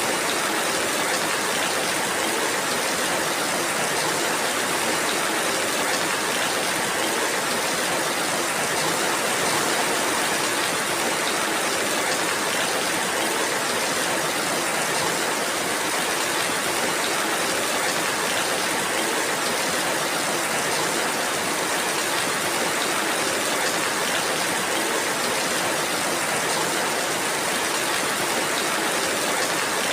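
Steady rainfall, an even hiss that holds without let-up and has no distinct drops or thunder standing out.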